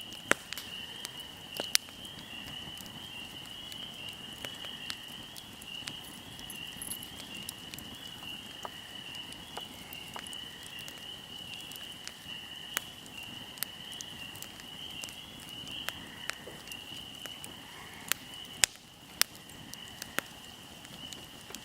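Wood fire crackling, with irregular sharp pops and a few louder snaps near the end. A steady high-pitched insect trill runs behind it.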